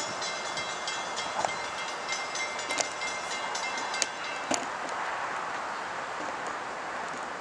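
Distant train approaching before it comes into view: a steady rushing noise with a thin high ringing that fades out about four seconds in, and a few sharp clicks.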